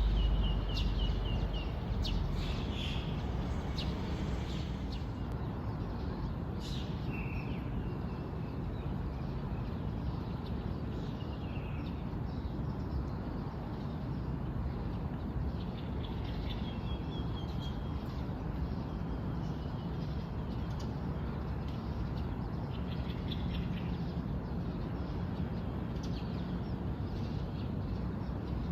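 Wild birds chirping and giving short trills at intervals, over a steady low background rumble.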